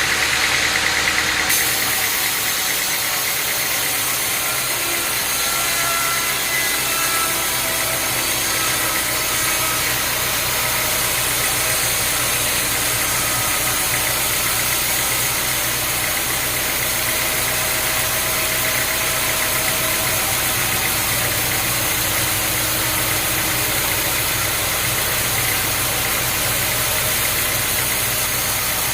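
An engine running steadily at a constant speed, with a steady hum and a noisy hiss that do not change.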